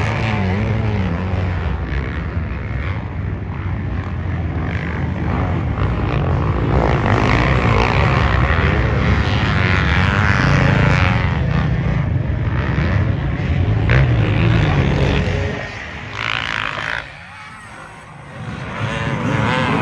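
Off-road race engines of dirt bikes and ATVs running hard on a motocross track, the pitch rising and falling as riders work the throttle. The sound drops off sharply a few seconds before the end, then comes back up.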